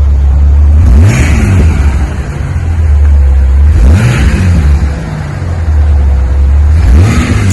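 2006 Jeep Wrangler's exhaust through a new Magnaflow muffler, idling with a low purr, nothing too crazy loud. It is revved three times, about three seconds apart, each rev rising in pitch and settling back to idle.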